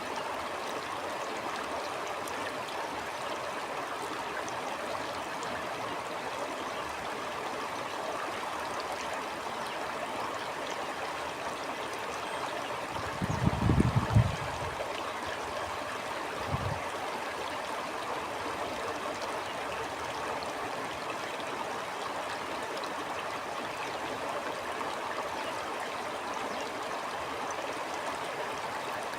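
A flowing stream, steady rushing and burbling water. About halfway through comes a low thump lasting a second or so, the loudest thing here, and a shorter one a couple of seconds after.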